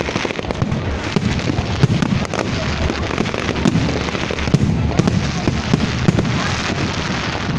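Aerial fireworks going off in a dense, continual run of bangs and crackling, with a few sharper reports standing out.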